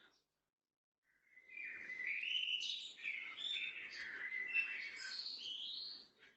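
Wild birds chirping and singing, a busy run of overlapping calls that starts about a second in and stops shortly before the end.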